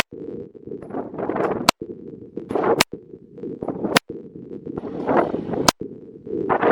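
Handgun fired five times at an uneven pace, about one shot every one to two seconds, each shot sharp and followed by a brief cut in the recording.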